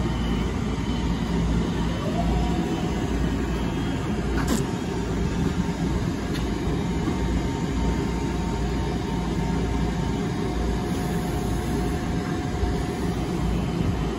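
Metro-North electric multiple-unit train standing at the platform, a steady rumble and hum with a faint held whine. One sharp click comes about four and a half seconds in.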